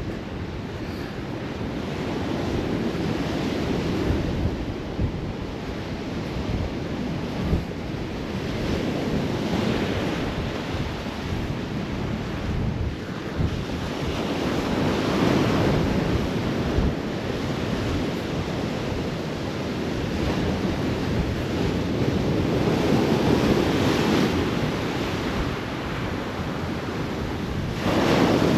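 Rough sea surf breaking and washing in storm conditions, swelling and fading every few seconds. Strong gale-force wind buffets the microphone through a GoPro windsock, giving a ragged low rumble throughout.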